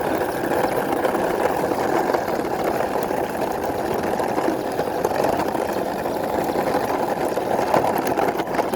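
Plastic wheels of a toy jeep rolling along a hard surface as it is pushed by hand: a steady rolling rumble.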